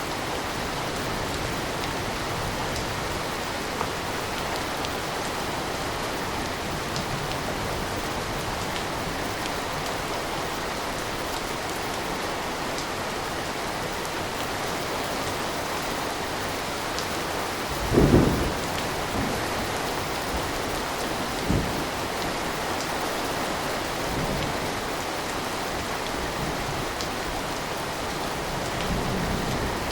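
Steady rain falling, with a loud low clap of thunder about eighteen seconds in and a smaller one a few seconds later.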